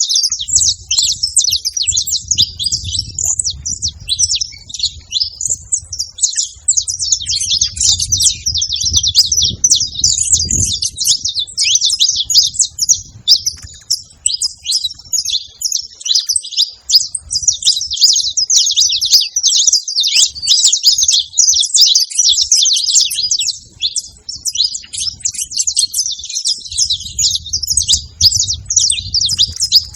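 Saffron finches singing: a fast, nearly unbroken stream of high chirps and trills, with a low rumble underneath at times.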